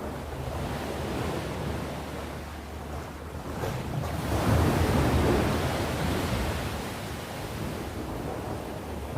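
Sea waves breaking and washing on the shore, swelling to a peak about halfway through and then ebbing, with wind rumble on the microphone.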